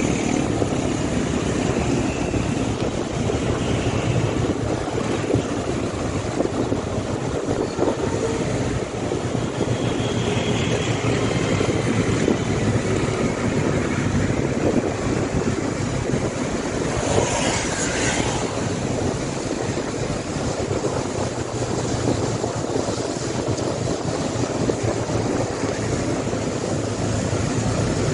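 Motorcycle running steadily while riding on the road: a steady engine drone under road noise, with a brief louder rush about two-thirds of the way through.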